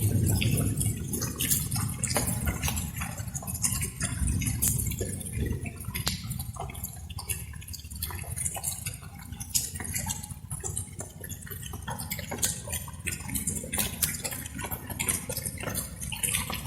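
Light rain: raindrops dripping and pattering in irregular single drops, over a low rumble that is louder at the start and near the end.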